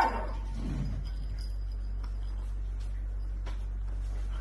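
Steady low hum with faint background noise. A brief faint low sound comes about a second in.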